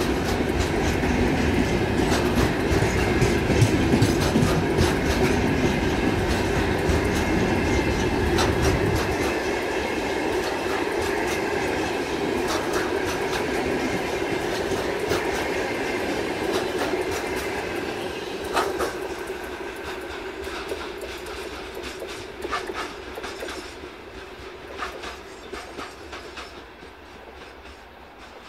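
Freight train's covered hopper wagons rolling past, their wheels clacking over the rail joints with a heavy rumble. After about nine seconds the rumble drops away and the sound fades steadily as the last wagons pass and the train draws off.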